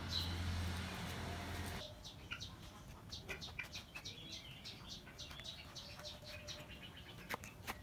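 Birds chirping in many short, high, repeated notes, with a few light clicks among them. This follows about two seconds of low hum and rustling noise at the start.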